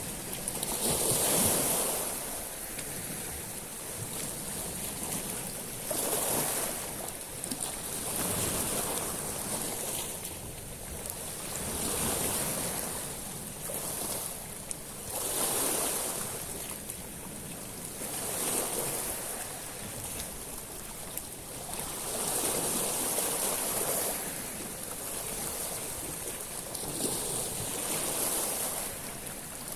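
Sea waves breaking and washing over a beach of small stones, swelling in a new surge every two to four seconds with a bright, hissing wash.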